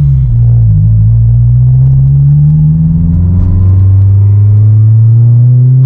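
Car engine heard from inside the cabin under acceleration. The note dips briefly at the start, then the revs climb slowly and steadily.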